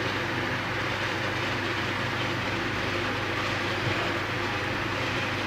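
Steady background hum and hiss with no distinct knocks or clicks.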